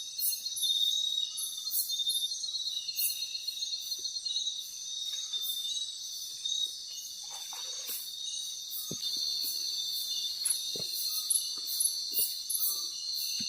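Night chorus of insects: a steady high-pitched buzzing, with repeated chirps and pulses over it. A few soft knocks come in the second half.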